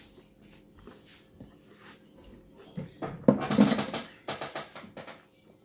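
Close-up eating sounds from a crispy taco shell: soft mouth clicks and chewing, then a burst of loud crunching about three seconds in that lasts around two seconds.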